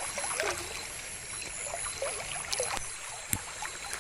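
Night ambience: insects trilling steadily in a high, pulsing band over splashing and trickling water, with scattered short chirps and one sharp click a little past three seconds in.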